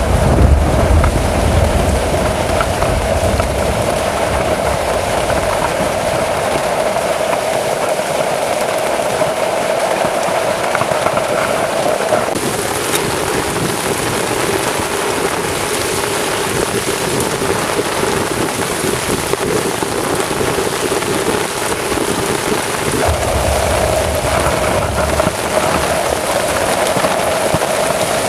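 Heavy rain pouring steadily in a thunderstorm, with low thunder rumbling at the start and again near the end.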